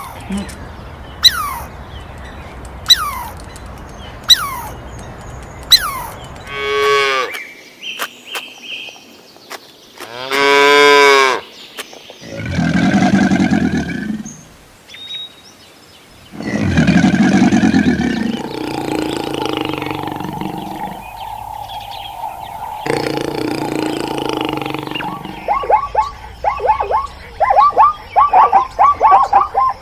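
A string of farm-animal calls, among them cattle mooing: two long, low moos near the middle, with short falling chirps early on and quick repeated calls near the end.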